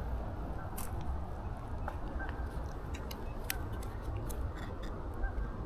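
Steady low rumble on a body-worn action camera's microphone, with a scattering of small sharp clicks and crunches about once every half second to second.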